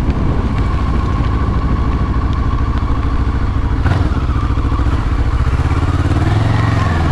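Kawasaki ER-6n parallel-twin motorcycle engine running steadily at low speed while filtering through slow traffic.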